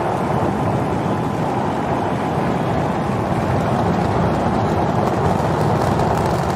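Super Heavy booster's 33 Raptor engines firing just after liftoff: a loud, steady roar of dense noise.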